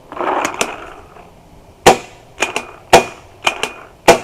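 Paintball markers firing: about seven sharp pops at irregular intervals, some in quick pairs, starting about two seconds in. A short rustling noise comes before them.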